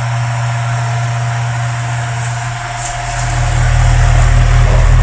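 Mundial electric fan running with a steady motor hum and a rubbing, worn-sounding noise from its poor-quality adapted bearing, which runs with friction; the sound grows louder about three seconds in.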